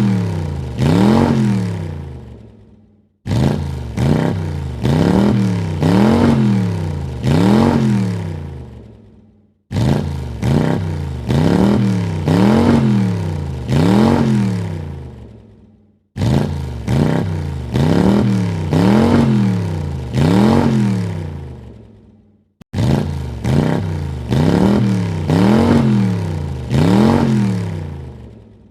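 Car engine revved in quick blips: about four sharp rises and falls in pitch, then the engine dies away and the sound cuts off. The same run of revs repeats about every six and a half seconds.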